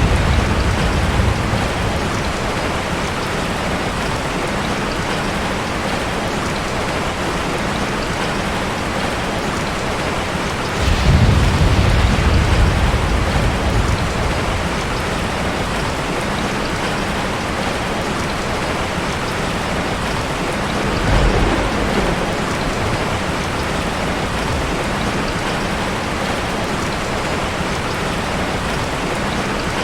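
Steady rain falling, with low thunder rumbles three times: right at the start, a longer roll about a third of the way in, and a brief one about two-thirds through.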